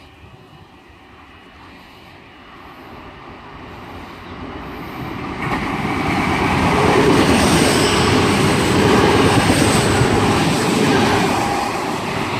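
Four-car Endeavour diesel railcar train passing through at speed without stopping. The rumble of engines and wheels builds from about four seconds in, is loudest in the middle with a faint high whine over it, and eases a little near the end.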